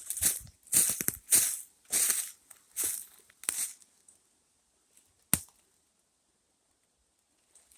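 Footsteps crunching through dry leaf litter, about two steps a second, stopping about four seconds in; a single sharp crack follows a little over a second later.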